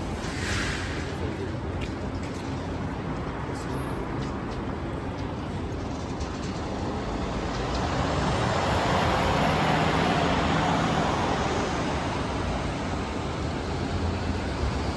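Downtown street in heavy rain: a steady hiss of rain and wet traffic noise, with a vehicle passing that swells louder and carries a low engine hum from about eight seconds in, then fades.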